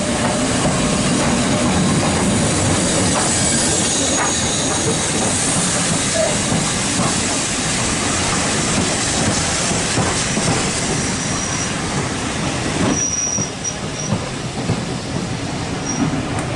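Train running on the rails with rumble and rail clatter, and high-pitched wheel squeal coming in short bursts in the later part.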